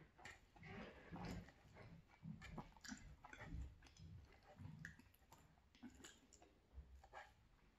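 Faint chewing of cheesy penne pasta, with small irregular clicks of a fork against a nonstick frying pan as pieces are speared.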